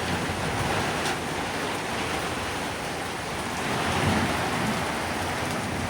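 Heavy rain with hail falling hard and steadily.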